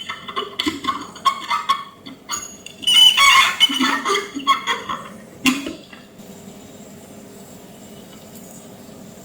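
Irregular clattering and clinking of small hard objects being handled, stopping about six seconds in and leaving a steady hum.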